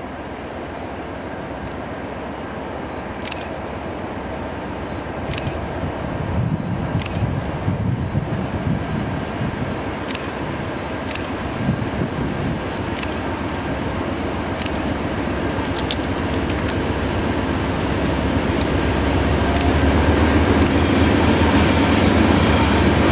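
Norfolk Southern diesel freight locomotives approaching and passing close by: a low engine rumble growing steadily louder, with faint sharp ticks every second or two. Near the end a thin high squeal joins in, from the wheels on the curve.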